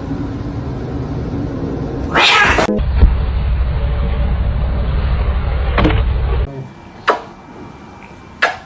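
A domestic cat gives one short, loud cry about two seconds in, over a steady low rumble. The background changes abruptly a couple of times, and a few sharp clicks come near the end.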